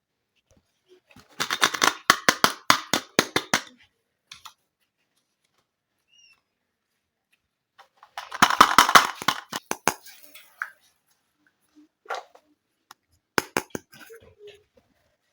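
Small plastic toy kitchen pieces and their packaging being handled: two bursts of rapid clicking and crackling, one about a second in and one around the middle, then a few lighter taps near the end.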